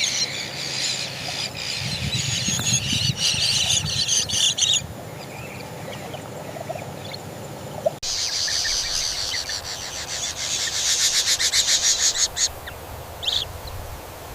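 Birds chirping in two long bouts of rapid, high-pitched chirps, the second starting after an abrupt cut about eight seconds in.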